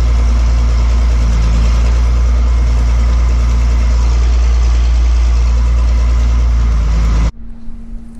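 A farm machine's engine running steadily with a deep rumble, cutting off abruptly about seven seconds in, leaving a faint steady hum.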